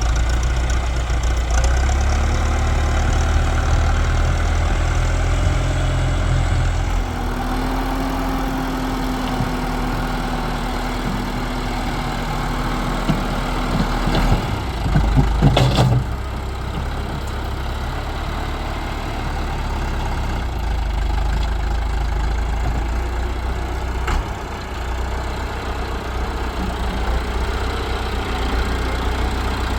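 Tractor engine running steadily, with a short burst of knocks about halfway through.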